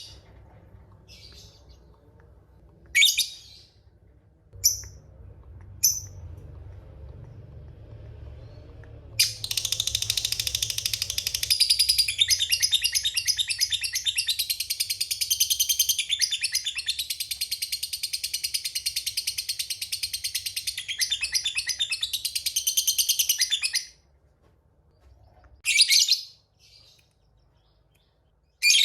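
Lovebird giving a few short, sharp calls, then a long, rapid chattering trill lasting about fourteen seconds, the prized 'ngekek panjang' of a fighter lovebird, followed by two more short calls near the end.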